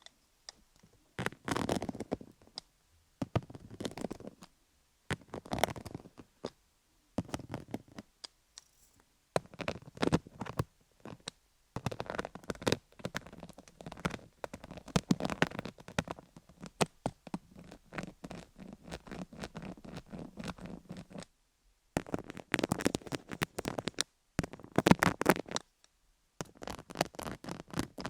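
MTS microneedle roller rolled over a cubic-zirconia-studded dummy-head microphone: a dense, scratchy crackle of needles over stones. It comes in strokes of one to two seconds with short pauses between them.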